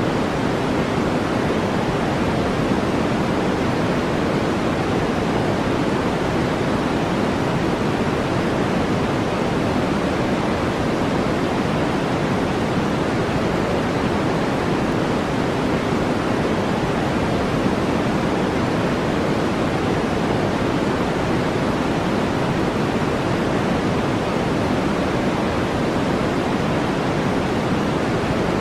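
Steady brown noise: an even, deep rushing hiss that never changes.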